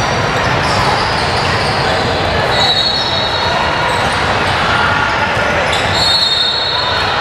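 Basketball game in a gymnasium: a basketball bouncing on the court amid the constant noise of players and spectators' voices echoing in the hall, with two brief high-pitched squeals, one about two and a half seconds in and one near six seconds.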